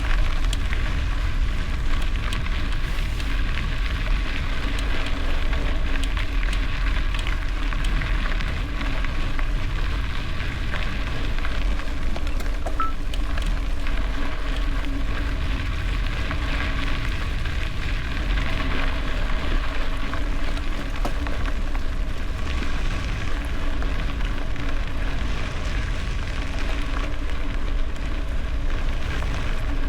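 Gravel bike riding: tyres crackling steadily over loose gravel, with wind rumbling on the camera microphone.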